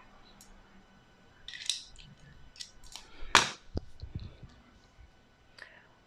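Scattered small clicks and light scrapes of a hand tool being fitted against the dishwasher's fasteners, with a sharp click about three and a half seconds in.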